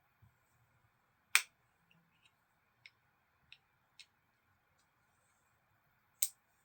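Sharp, isolated clicks of small metal knife parts and tools being handled: one loud click about a second in, three lighter ticks in the middle, and another loud click near the end.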